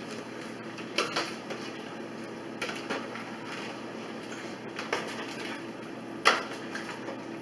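Scattered knocks and clicks of cooking utensils against a soup pot, about six short sharp ones with the loudest near the end, over a steady low hum.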